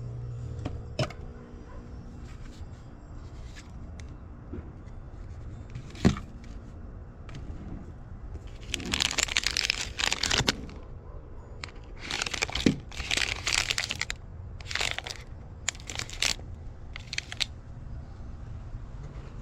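Trash being rummaged through: crinkling and rustling in several bursts of a second or two each, with a sharp knock about six seconds in.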